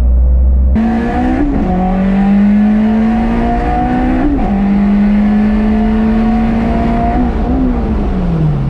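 Car engine pulling through the gears: its pitch climbs steadily, then drops sharply at upshifts about a second and a half, four seconds and seven seconds in, and falls away as it slows near the end.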